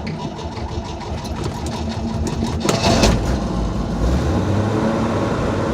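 1964 Chevrolet 250 straight-six with a Rochester single-barrel carburetor running rough on a cold start, choke still on. About three seconds in it is revved up and held at a higher, steady speed.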